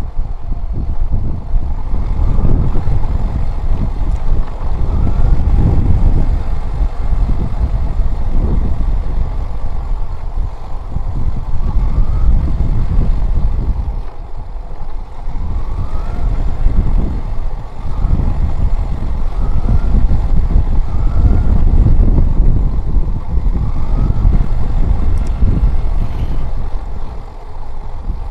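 A small motorcycle being ridden: a loud low rumble of engine and road that swells and dips, with short rising whines from the engine now and then.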